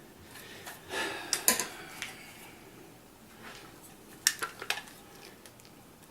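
Airsoft rifle magazine scraping and knocking against a tight magazine well as it is forced up into it, with a few sharp clicks. The magazine is too thick to seat in the well.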